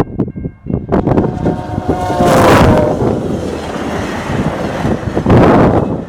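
VIA Rail passenger train passing at speed: a rush of wheels on rails that swells to its loudest about two and a half seconds in, where a pitched tone drops as it goes by, then eases off. Strong wind gusts buffet the microphone.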